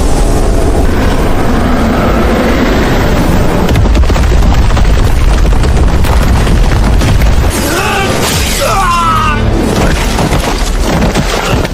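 Cinematic booming rumble with a music score. About eight seconds in, a wavering cry rises and falls for about two seconds.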